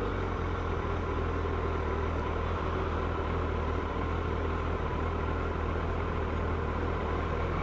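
Suzuki Hayabusa motorcycle's inline-four engine idling steadily.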